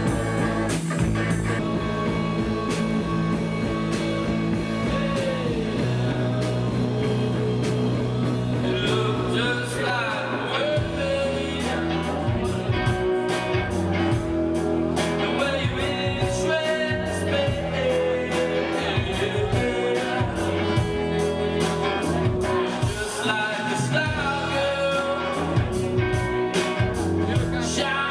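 Rock band playing a song with a singer: electric guitar, bass and a drum kit keeping a steady beat, the drums busier from about halfway in.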